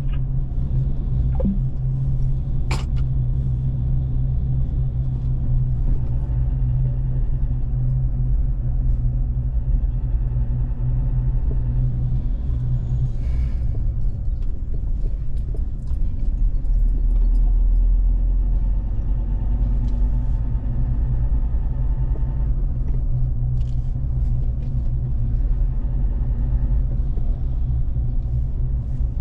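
Car driving along a road: steady low engine and road rumble, swelling a little about sixteen seconds in, with a single sharp click about three seconds in.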